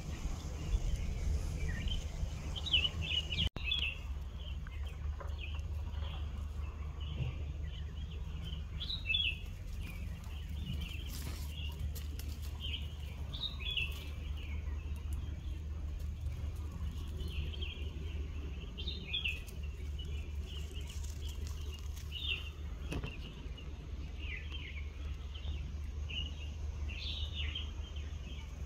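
Small birds chirping again and again in short, high calls, over a steady low rumble.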